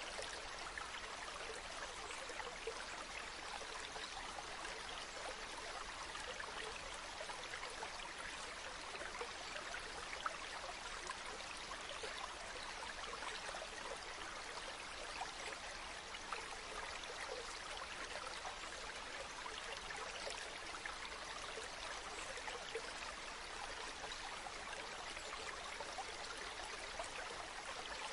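A stream running: a steady rush and trickle of flowing water, with a few faint ticks here and there.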